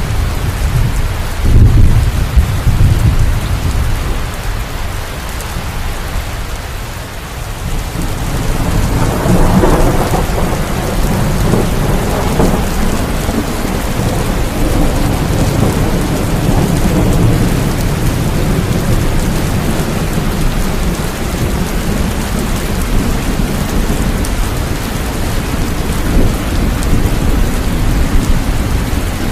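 Steady heavy rain with rolling thunder: a low crack of thunder about two seconds in, and a longer rumble building from about eight seconds in and fading slowly.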